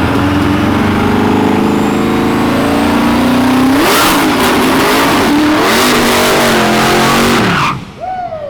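Big-wheel drag car engine running at full throttle down the track, its pitch climbing and twice dropping back, then cutting off abruptly near the end.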